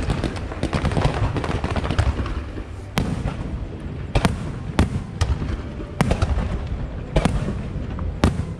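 Aerial fireworks display: dense rapid crackling for the first few seconds, then a series of separate loud shell bursts, about one a second.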